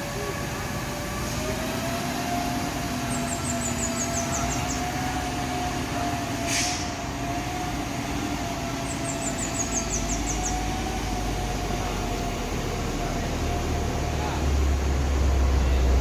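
Heavy truck engine running under load on a steep uphill climb: a steady drone with a held whining tone, its low rumble growing louder over the last few seconds as it comes closer.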